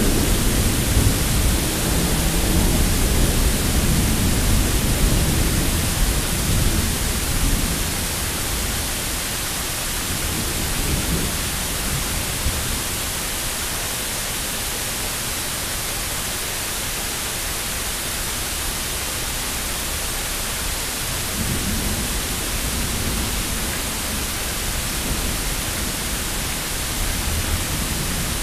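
Steady hiss of rain, with a low roll of thunder rumbling through the first several seconds and dying away, and a fainter rumble about three-quarters of the way through.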